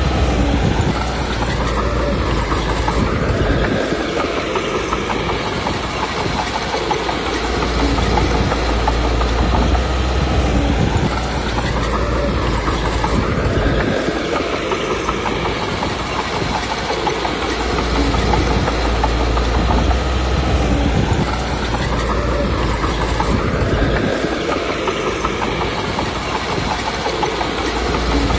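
Komatsu D21P bulldozer's diesel engine working under load with the clatter of its steel tracks. The engine note rises and falls in a repeating cycle about every ten seconds.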